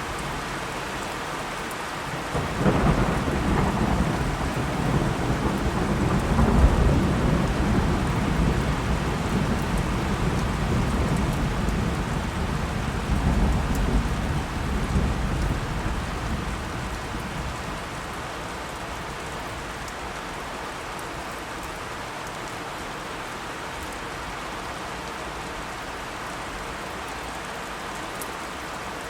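Steady rain falling, with a long roll of thunder. The thunder rumbles in about two seconds in, is loudest a few seconds later, and fades back to the rain alone by about halfway.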